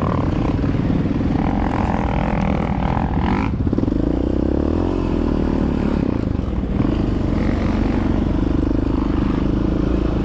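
Yamaha Raptor 700R ATV's single-cylinder four-stroke engine running under changing throttle while riding, its note rising and falling. A second, higher engine tone runs alongside and cuts off after a rise about a third of the way in.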